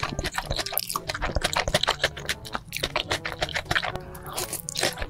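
Close-miked eating sounds: rapid wet chewing and mouth clicks over background music.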